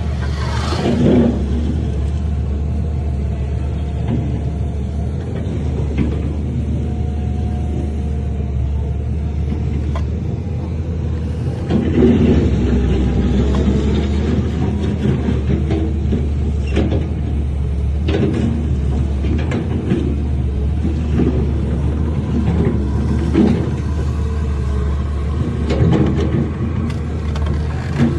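Heavy diesel earthmoving machinery running steadily with a deep engine rumble, and occasional knocks and clanks over it.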